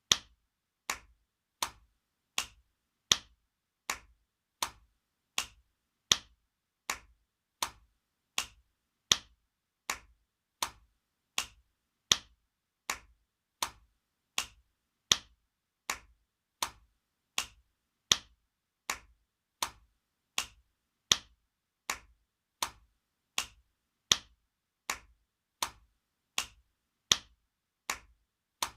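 Spanking sound effect: sharp slaps of a hand on skin, repeated at an even pace of about four every three seconds, the first of each four louder than the rest.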